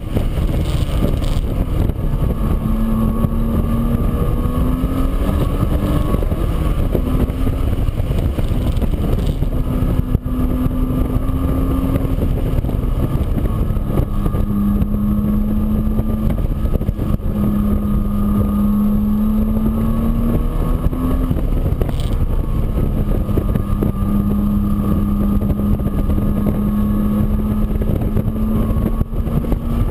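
A motor running continuously under a loud low rumble. Its tone holds steady for several seconds at a time, then shifts or glides up in pitch now and then.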